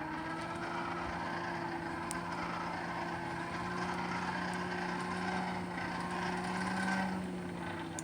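Forge blower running steadily: a low motor hum with a second, higher tone, its pitch drifting slightly up and then down near the end, over a hiss of rushing air.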